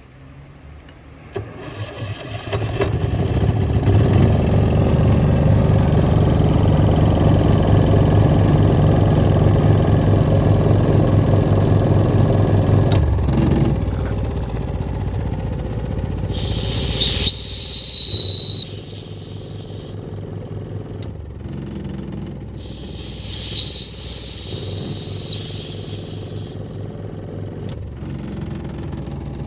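Seiwa SCPE-22GLS soundproofed engine air compressor started with its electric starter: it cranks briefly, catches about two seconds in and runs loud, then settles to a lower, steady running note about halfway through. Two spells of high, whistling air hiss come over the engine, the second about five seconds after the first.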